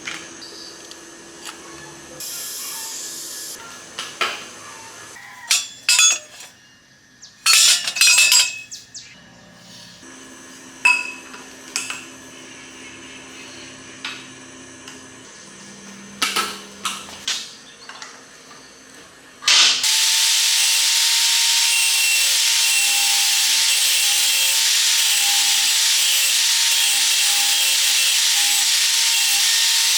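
Workshop hand-work sounds: scattered taps, clicks and knocks of metal parts and tools. About two-thirds of the way in, a power tool starts and runs loud and steady with a high hiss to the end.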